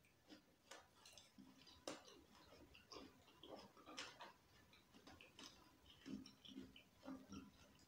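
Close-miked chewing of juicy watermelon: quiet, wet crunches and mouth clicks at an irregular pace.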